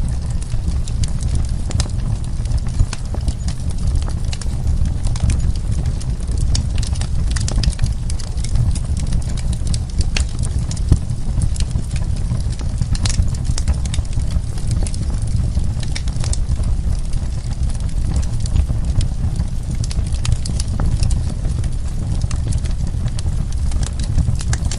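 Wood fire burning, with constant sharp crackles and pops of the burning logs over a steady low rumble of the flames.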